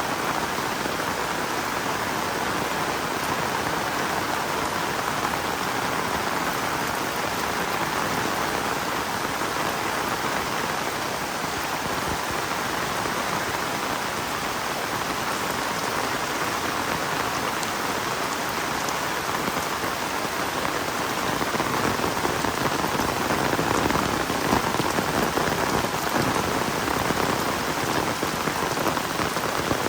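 Heavy rain falling steadily, a dense even hiss of drops, growing a little louder about two-thirds of the way through.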